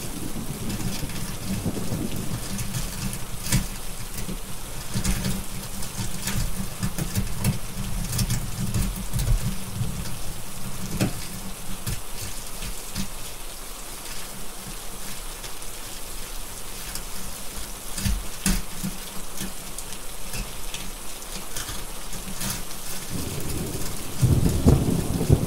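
Steady heavy rain with rolling thunder rumbling low; the rumble eases off about halfway through and builds again near the end. Scattered sharp clicks and crackles run through the rain.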